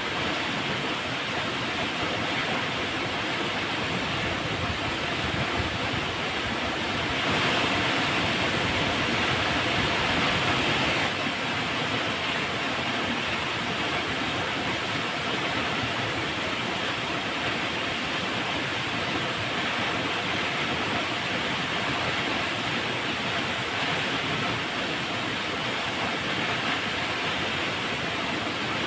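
Flowing river water rushing steadily, swelling a little louder for a few seconds about seven seconds in.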